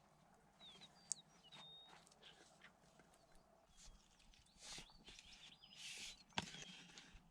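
Faint high bird chirps, short and scattered, over quiet outdoor background, with two brief rustling swishes and a single sharp knock near the end.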